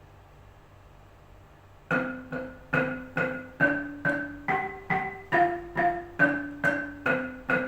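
Malay gamelan ensemble: a struck keyed instrument starts about two seconds in and plays a melody one note at a time, about two strokes a second, each note ringing briefly.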